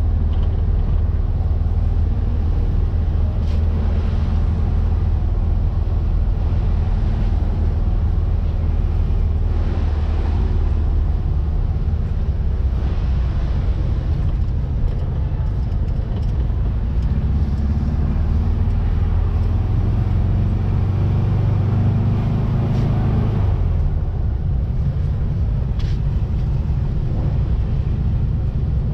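1700cc air-cooled VW flat-four engine of a Baja Bug running under way. The engine note climbs for several seconds past the middle, then drops suddenly.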